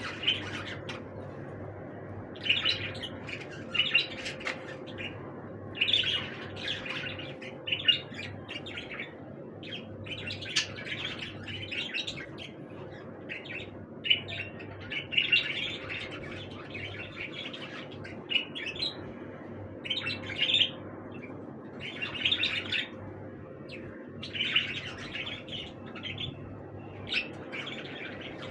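Budgerigars chirping and chattering in short bursts every second or so, over a faint steady low hum.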